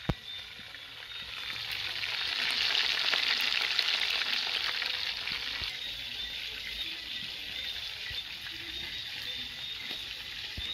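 Squid frying in a hot pot: a sizzle that swells about a second in, is loudest around three to four seconds, then settles to a lower steady hiss. A short click comes right at the start.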